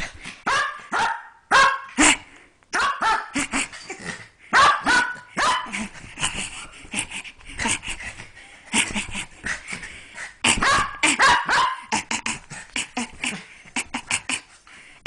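A puppy barking and yipping in play: many short, sharp barks and yips in quick succession, some with a higher whining tone.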